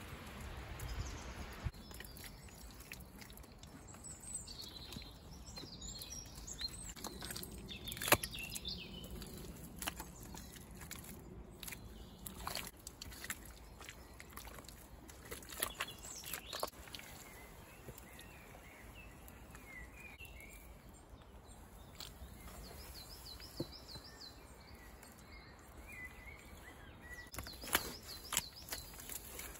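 Birds singing and calling in short high chirps and trills, with scattered sharp clicks and taps over a faint steady background hiss.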